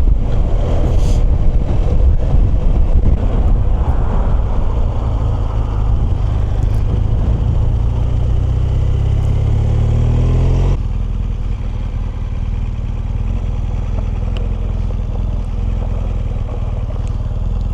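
Motorcycle engine running, its pitch rising steadily for a few seconds as it picks up revs, then dropping suddenly about ten seconds in to a quieter, steady engine note.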